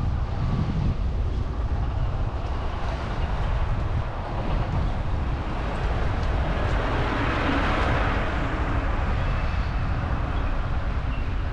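Street traffic heard from a moving bicycle: a steady low rumble under a wash of road noise, with a vehicle passing close by, swelling to its loudest about seven to eight seconds in and then fading.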